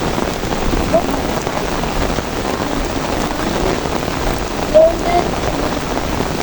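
Steady rain falling, a dense even hiss. A few short, higher sounds stand out above it, about a second in and twice near five seconds, the loudest of these about five seconds in.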